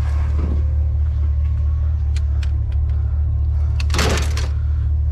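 A vehicle engine idling with a steady low rumble, with a few light clicks and, about four seconds in, one brief loud rasp.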